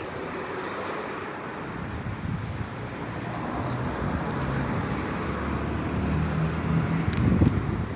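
Road traffic rumble with wind noise, slowly building as a vehicle passes, loudest near the end.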